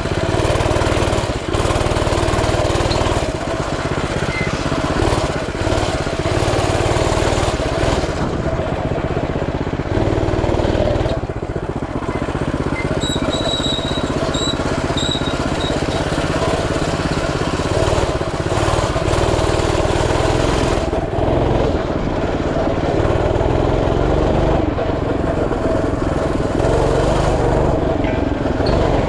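Coleman CT200U mini bike's 196cc single-cylinder four-stroke engine running as the bike is ridden, its pitch rising and falling with the throttle.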